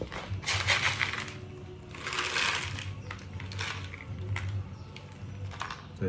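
Dry lentils, chickpeas, beans and corn kernels rattling and rustling as the mix is handled, in two bursts: one just after the start and a second about two seconds in, with smaller clicks between.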